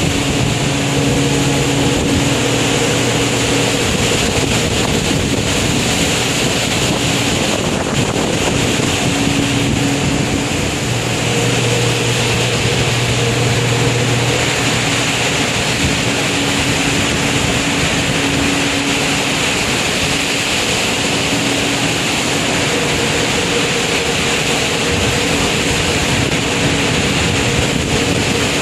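Storm wind and heavy sea heard aboard a ship in a typhoon, a steady loud rush with wind buffeting the microphone. A low steady hum comes and goes underneath.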